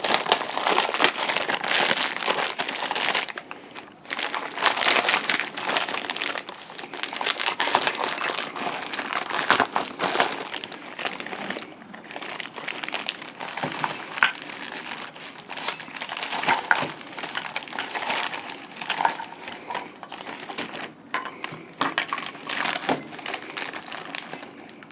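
Packaging crinkling and rustling in bouts as parts are unwrapped and handled, with scattered sharp clicks.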